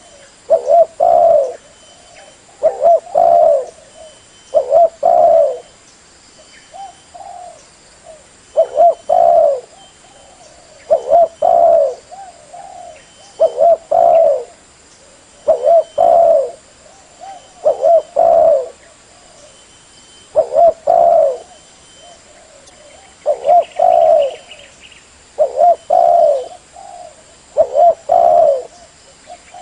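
Spotted dove (terkukur) cooing: a short phrase of a few low coos, repeated about every two seconds with one longer pause.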